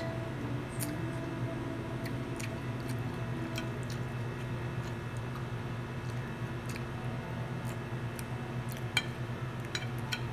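A person chewing food close to the microphone, with small sharp clicks scattered throughout. A steady low hum runs underneath.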